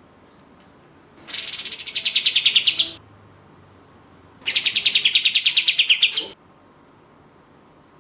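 Kapas tembak (katem) songbird giving two rapid trilled bursts, its 'tembakan', each about a second and a half long with a fast run of repeated notes that starts high and drops in pitch.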